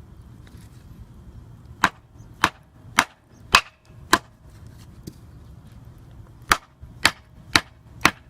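Fire-starter flint being struck to throw sparks onto tinder: crisp, sharp strikes about twice a second, five in a row, a pause of about two seconds, then four more near the end.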